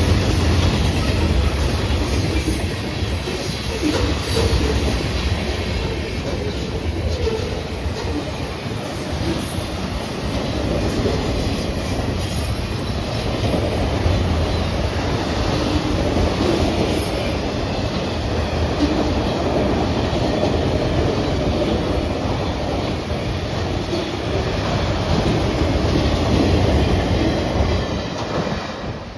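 Freight cars of a long train rolling by: a steady rumble of steel wheels on rail with a rhythmic clicking over the rail joints.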